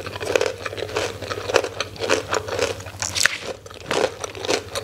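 A person chewing crunchy food with the mouth full, a run of irregular crisp crunches.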